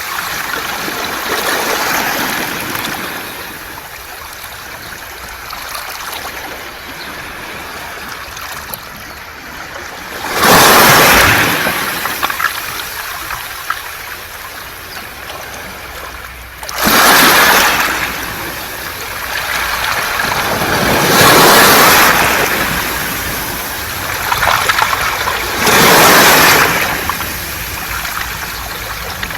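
Sea waves washing over a beach of smooth round pebbles (mongdol), a steady wash that swells into four big surges in the second half, each a rush of water and rolling pebbles.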